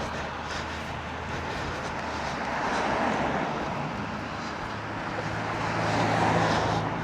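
Surf washing on the shore, swelling louder twice, over the low drone of a distant engine.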